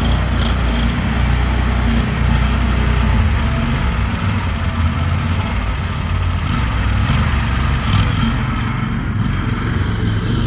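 Small gasoline engine of lawn equipment running steadily, with a few light clicks or knocks over it.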